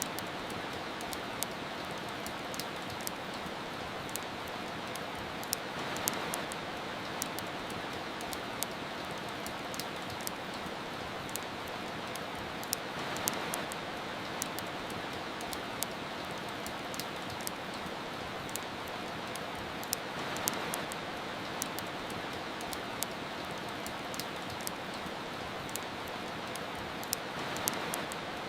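Steady soft rain with a fireplace crackling over it in frequent sharp pops. The hiss swells gently about every seven seconds.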